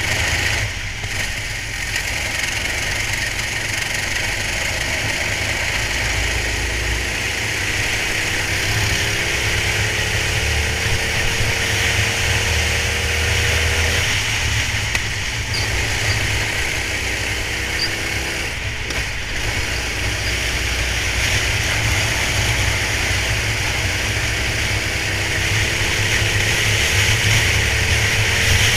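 Racing kart engine heard onboard, its pitch climbing slowly along a straight and then falling off sharply, three times over, under a heavy low rumble and steady hiss.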